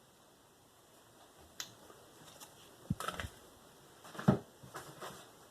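Scattered clicks and knocks of diamond sharpening stones being handled and set down on a bench while the stones are swapped. The loudest is a dull knock about four seconds in.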